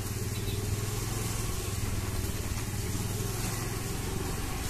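Small motorcycle or scooter engine running steadily at low speed, with a steady hiss.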